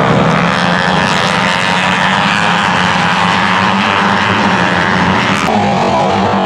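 Several engines running at high revs, their pitch slowly gliding, with an abrupt change about five and a half seconds in.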